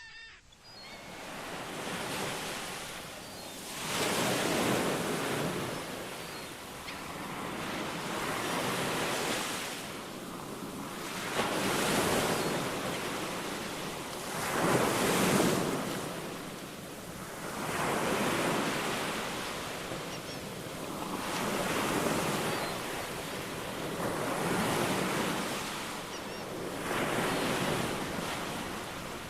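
Ocean surf: waves washing in and breaking, the rush swelling and fading about every three to four seconds.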